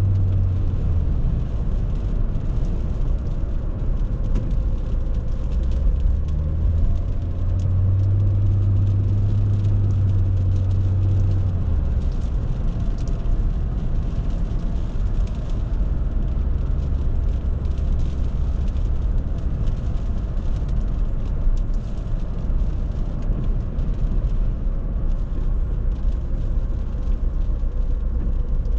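Audi A6 C6's 2.4-litre petrol V6 running steadily on the move, heard from inside the cabin over tyre and road noise. The low engine hum drops in pitch about a second in, rises again around seven seconds, and drops once more around twelve seconds.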